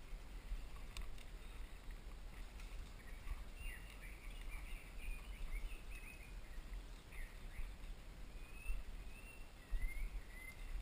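Birds chirping, a scatter of short calls, some sliding in pitch, over a low steady rumble.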